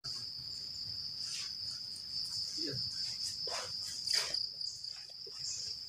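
A chorus of forest insects keeps up a steady, high-pitched trilling drone, with a few faint clicks and rustles over it.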